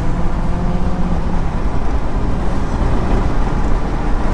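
Audi S4's 4.2-litre V8 running under way, heard from inside the cabin as a steady low engine drone mixed with tyre and road noise.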